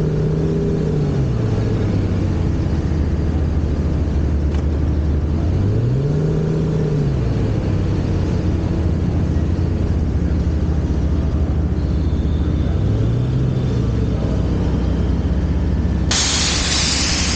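Car engine running with a steady low drone, its pitch rising and falling three times as it is briefly revved. Near the end a loud rushing noise cuts in suddenly.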